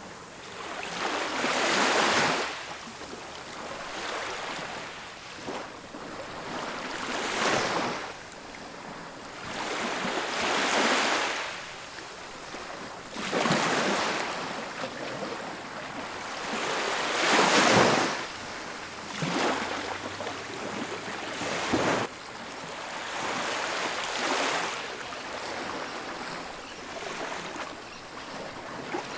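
Ocean waves breaking and washing up a beach, a surge of surf every three to four seconds; the loudest wave comes a little past halfway.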